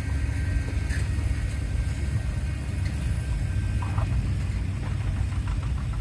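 Antique tractor engine running with a steady low rumble, with a few faint clicks over it.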